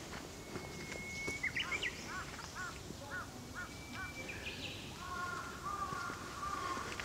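Wild birds singing in woodland: a steady high whistle, then a quick run of about five arching notes, then longer held whistles near the end.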